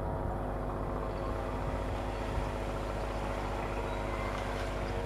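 Indian Railways EMU local train approaching on electric traction, giving a steady hum of several held tones over a low rumble.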